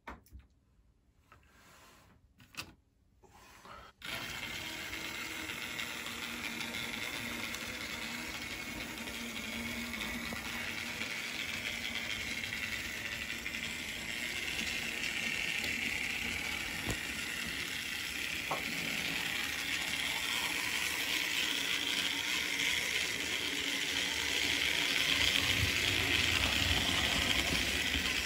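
Märklin BR89 model locomotive running on its track: a few light clicks, then about four seconds in its small electric motor and wheels start a steady whirring that grows a little louder toward the end.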